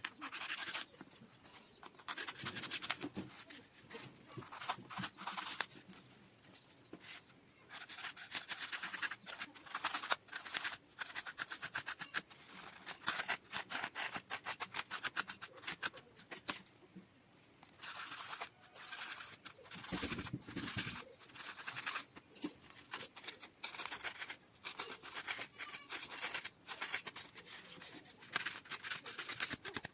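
Scissors cutting paper in repeated runs of quick snips, each run lasting a second or two with short pauses between.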